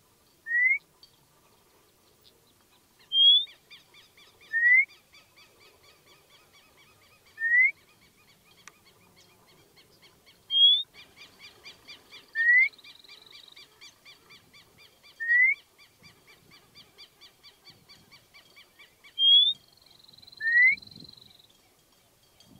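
White monjita calling: nine short, rising whistled notes, some pitched higher than others, one every one to three seconds. A faint, fast ticking trill runs behind them.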